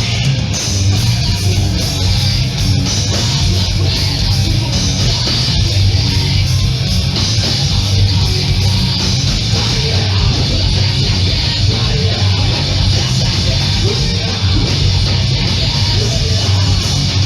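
Hardcore punk band playing live at full volume: heavy distorted electric guitars, bass and drums, continuous and loud.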